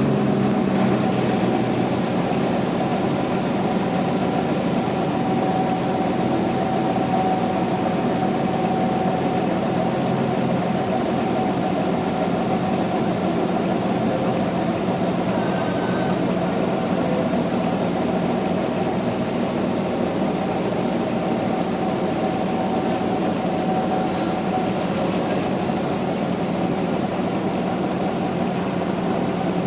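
Sawmill machinery running steadily with a constant hum, with a short hiss about 25 seconds in.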